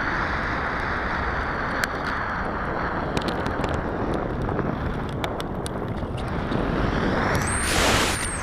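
Wind rushing over the camera's microphone during an RC sailplane flight, with scattered sharp ticks. Near the end the rush swells louder and a high whistle briefly rises and falls.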